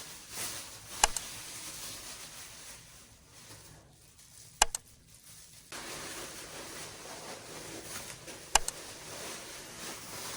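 Three sharp double clicks, about four seconds apart, over a steady hiss of room noise.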